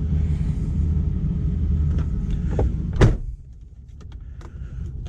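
Mercedes-Benz 420 SEL's 4.2-litre V8 idling cold with a steady low rumble. About three seconds in there is a sharp thump as a door or window shuts the cabin, after which the engine sounds much quieter and muffled.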